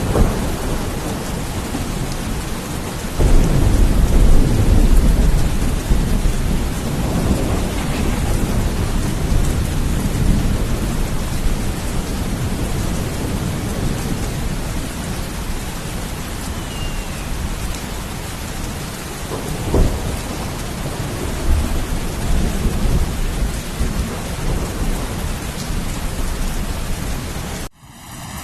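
Steady heavy rain with rolling thunder: a long, loud rumble swells about three seconds in and a weaker one comes around twenty seconds. The sound drops out abruptly for a moment near the end.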